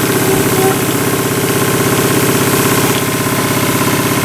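Jensen slide-valve toy steam engine running on live steam at low boiler pressure, a fast, even, continuous beat of its cylinder and exhaust.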